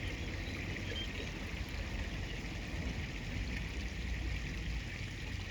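Steady rush of flowing river water, an even hiss with a low rumble underneath and no distinct events.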